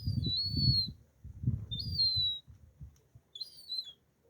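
Gull chick giving thin, high whistled begging peeps: three calls about a second and a half apart, each held and then dropping slightly at the end. Under them is a low, muffled pulsing rumble.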